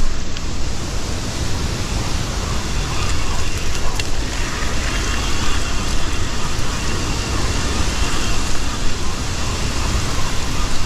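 River rapids rushing, a loud, steady roar of white water that does not let up.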